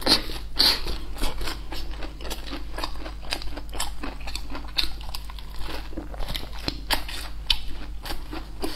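Close-miked biting and chewing of a crisp fried piece of food: crunches several times a second, the loudest in the first second, over a low steady hum.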